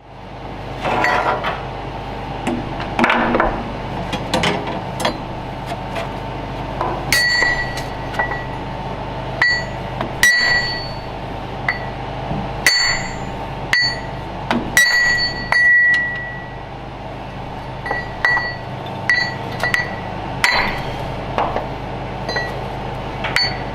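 Irregular metallic clinks and taps of hand tools against steel tractor clutch parts, many strikes ringing briefly with a clear high tone and one ringing longer about a quarter of the way from the end, over a steady low hum.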